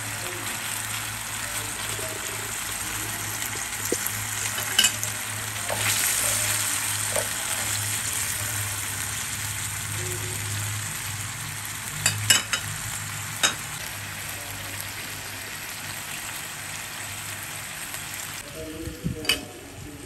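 Beef strips with chili and garlic sizzling steadily in bubbling oil in a wok, with a few sharp knocks scattered through. The sizzle drops off near the end.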